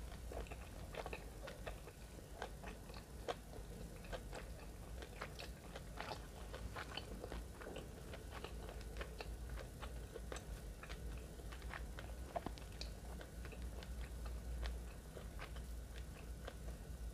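Close-miked chewing of a mouthful of nori-wrapped sushi with the mouth closed, many small irregular clicks and smacks. A steady low hum lies underneath.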